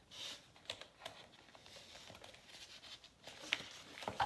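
Paper pages and ephemera of a handmade junk journal being handled and turned: soft rustles with scattered light clicks and taps.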